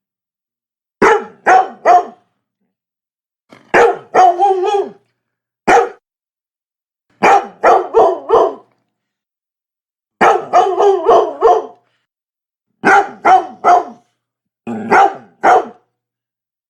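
Labrador barking in short bursts of about two to six quick barks each, separated by gaps of complete silence of roughly a second. There are seven bursts, the busiest, a rapid run of about six barks, coming just past the middle.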